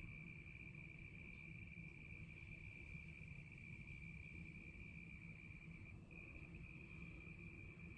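Faint, steady trilling of a cricket in one unbroken high note, broken briefly about six seconds in, over a faint low rumble.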